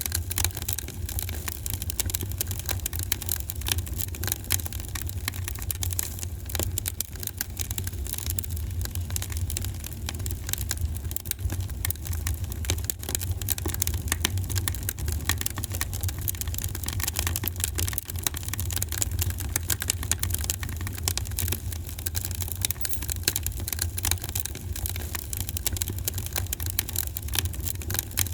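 Wood fire burning in a fireplace: dense, irregular crackling and snapping over a steady low rumble of the flames.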